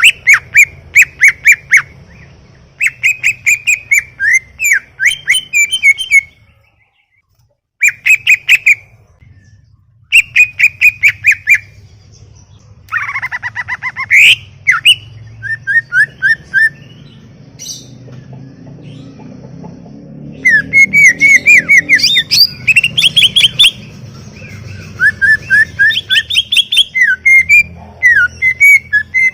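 Greater green leafbird (cucak ijo) singing loudly in fast runs of sharp repeated chirps, phrase after phrase with short pauses between. About 13 seconds in it gives one long rising sweeping note.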